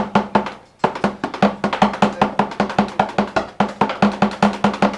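A drum played in fast, even strokes, several a second, with a brief break about half a second in, then a steady run of hits.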